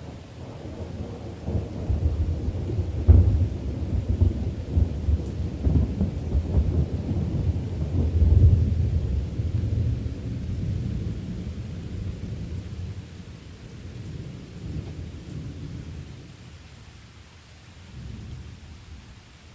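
A long, deep roll of thunder over steady rain: it builds, gives a sharp crack a few seconds in, swells to its loudest near the middle, then slowly rumbles away, with a smaller swell near the end.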